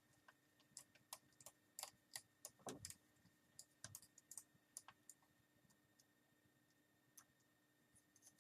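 Faint, irregular small clicks and ticks of a hand screwdriver backing out small Phillips screws from a laptop screen assembly. The clicks come thickly for the first few seconds, then thin out to a few scattered ones.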